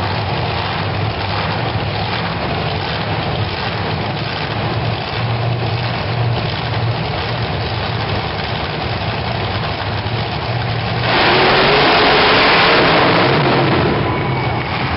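Monster truck engines running with a steady low rumble, then about eleven seconds in a much louder burst of engine noise that lasts about three seconds before easing off, as in a straight-line run.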